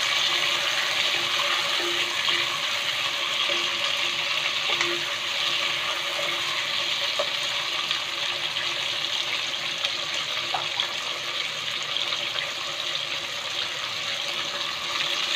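Chicken wings, onion, ginger, tomato and lemongrass sizzling steadily in hot oil in a pot, with a few faint ticks from a spatula stirring them.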